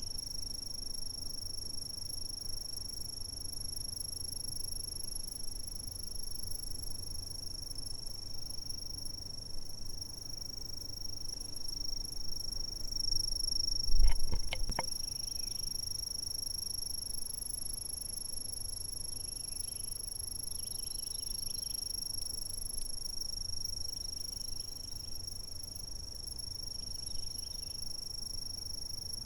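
Insects trilling steadily in one continuous high-pitched tone over a low background rumble. A brief low thump with a few clicks comes about halfway through.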